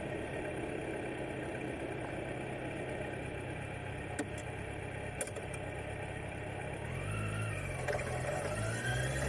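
Kawasaki Z900's inline-four engine running steadily, then about seven seconds in it revs up and pulls away, the pitch rising, dropping briefly at a gear change and rising again near the end. Two faint clicks come around the middle.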